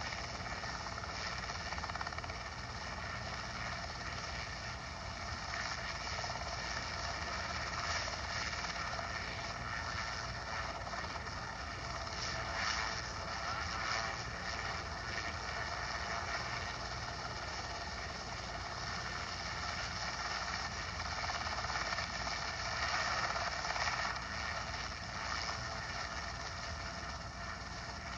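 Airplane engine droning steadily in flight, heard from inside the cabin.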